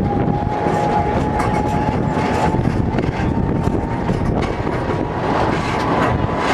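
Snowdon Mountain Railway rack train running downhill, heard from inside the carriage: a continuous loud rumble and clatter of the wheels and rack gear, with a thin steady whine that rises slightly in pitch and then fades.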